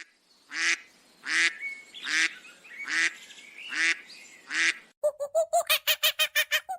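Goose-like waterfowl honking: about six harsh, separate calls, each under half a second. About five seconds in, the clip cuts to a different animal giving a fast run of short calls, about nine a second.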